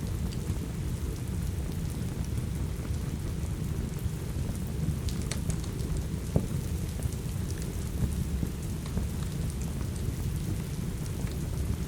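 Steady rain with a low rumble underneath, and scattered crackles and pops from a wood fire in a fireplace, one sharper pop about six seconds in.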